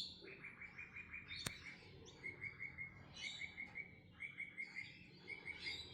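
Small songbird calling: fast runs of the same short chirp, about seven a second, in several bursts, with higher twittering notes over them. A single sharp click comes about a second and a half in.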